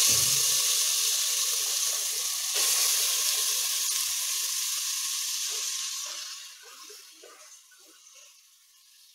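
Grated carrot sizzling in hot ghee in a pressure cooker as it goes in. The sizzle swells again about two and a half seconds in as more carrot is added, then dies down after about six seconds.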